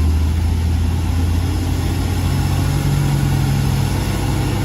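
Diesel truck engine running under load as the truck crawls past, a steady low drone with a higher engine note joining about two seconds in.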